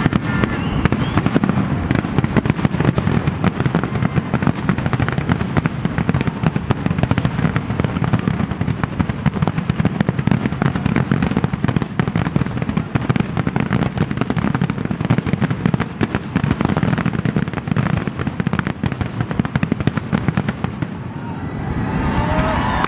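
Fireworks going off: a dense, unbroken run of many pops and bangs in quick succession.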